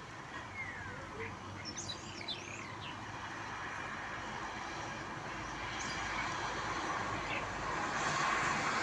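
Birds chirping and whistling over a steady hiss of rain. From about halfway a vehicle approaches on the wet road, its tyre and engine noise growing louder toward the end.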